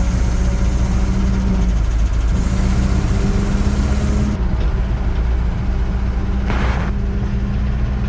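An old V8 engine running steadily while the vehicle drives along, with a steady hum and low rumble. A brief rushing noise comes about six and a half seconds in.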